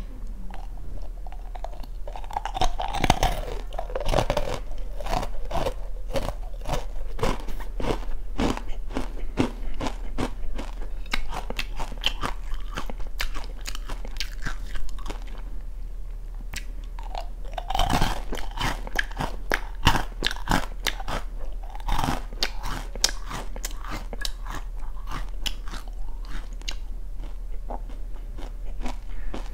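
Close-up crunching and chewing of oranda, a hard Korean snack of puffed grain balls bound in syrup, with many sharp crackles. Louder crunchy bites come a few seconds in and again around 18 seconds, between stretches of steady chewing.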